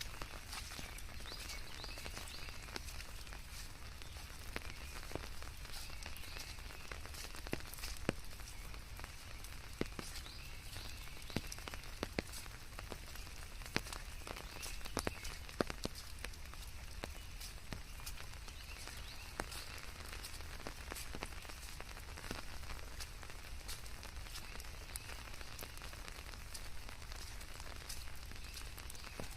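Steady rain hissing, with many sharp, irregular taps of single drops striking a surface, over a low rumble.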